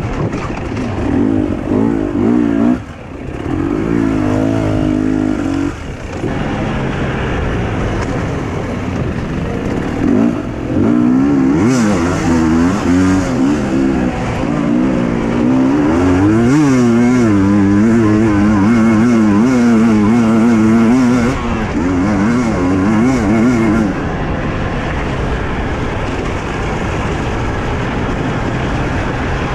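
Husqvarna TE 250i two-stroke enduro motorcycle engine revving up and down over and over as the throttle is worked over rough ground. It is loudest in the middle stretch and quieter and steadier over the last few seconds.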